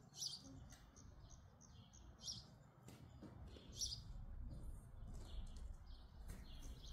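Birds chirping: short high calls every second or so, a few louder than the rest, over a faint low rumble.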